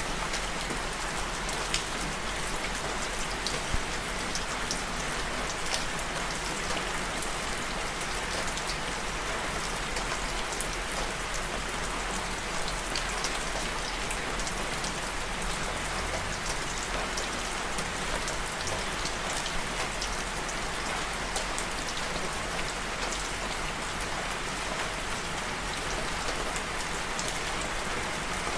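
Steady rain falling on a surface, a constant hiss with many small drops ticking through it.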